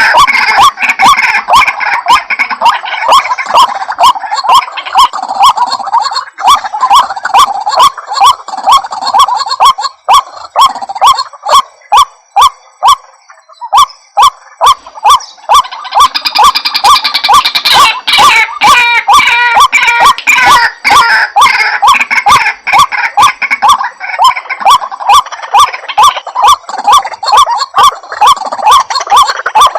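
White-breasted waterhen calls from a lure-call recording: a loud, continuous chorus of harsh, rapidly repeated notes, with a short lull a little before halfway.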